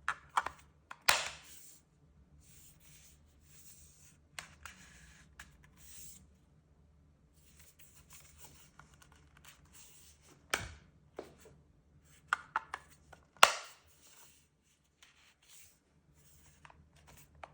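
Small objects being handled close up: intermittent rustling and scraping broken by several sharp clicks or knocks, the loudest about a second in, near the middle and about three-quarters through.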